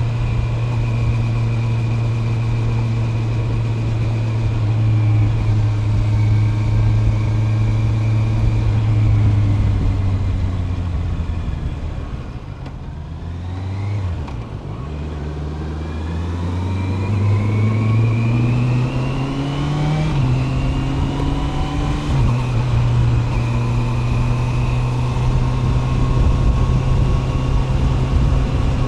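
Honda CB650R's 649 cc inline-four engine holding a steady note under wind noise, then easing off and dropping in pitch around the middle. It then pulls away again, rising in pitch with a sudden drop at an upshift about two-thirds in, and settles back to a steady cruise.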